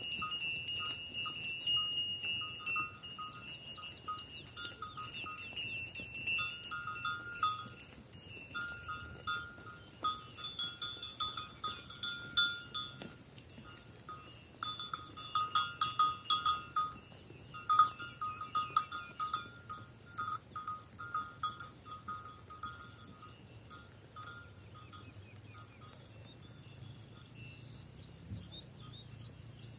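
Bells worn by a grazing flock of sheep, clanking and ringing in an irregular jangle as the animals move. The jangle thins out and grows fainter over the last third.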